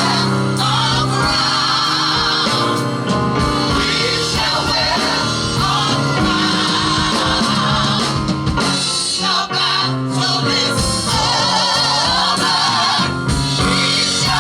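Gospel group singing with a backing band: several voices with vibrato over steady instrumental accompaniment.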